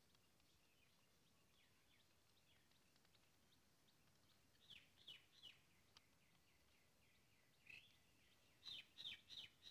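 Quiet bird chirping: short falling notes, three about five seconds in, then a quicker run of several near the end.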